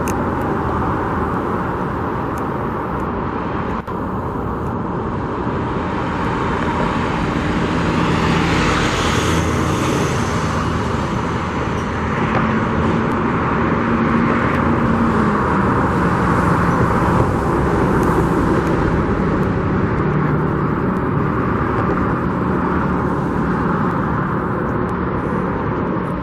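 Steady road traffic, cars and trucks passing close by, with louder swells as single vehicles go past, about nine seconds in and again near eighteen seconds, over a low engine drone.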